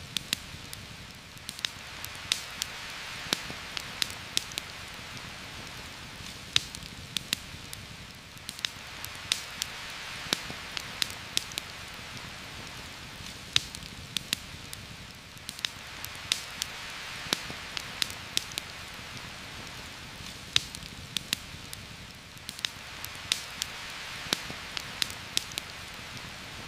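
Heavy rain as a steady hiss that swells and eases every seven seconds or so, with frequent sharp crackles and pops on top.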